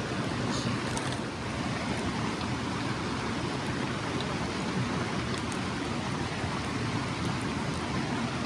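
Mountain stream rushing over rocks, a steady even wash of water noise.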